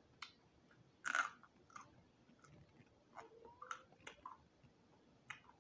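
Close-miked chewing of crispy roasted quail: faint wet chewing with scattered sharp crunches and clicks, the loudest crunch about a second in.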